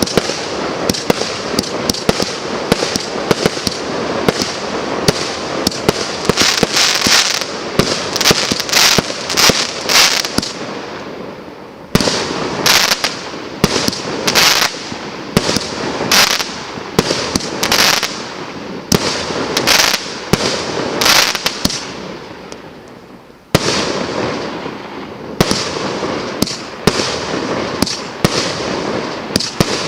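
Multi-shot firework battery (cake) FC23576 firing, its shots and bursts coming in quick succession. The firing dies away twice, then starts again abruptly, about twelve seconds in and again a little after twenty-three seconds.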